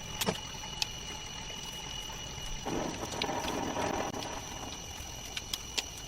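A short rush of water-like noise, like pouring or splashing, lasting about a second and a half in the middle, over steady high-pitched background tones and scattered small clicks.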